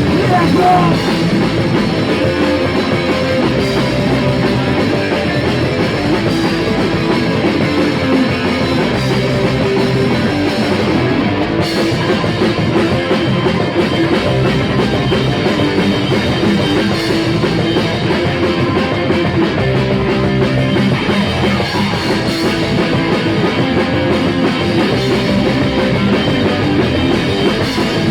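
Rock band playing a loud, driving song on drum kit and guitar at rehearsal, with no break.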